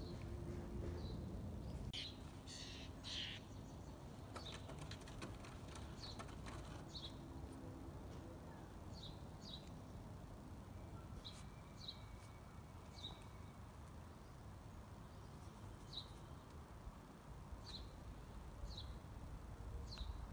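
A small bird chirping: short, high single chirps repeated about every second, over a faint low background rumble, with a brief rustle two to three seconds in.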